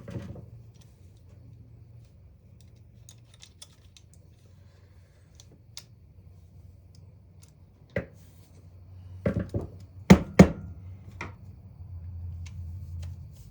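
Scattered small metal clicks and taps of needle-nose pliers working on the parts of a disassembled saw, with a sharp knock about eight seconds in and a quick run of louder knocks and clicks a second or two later. A faint steady low hum sits underneath.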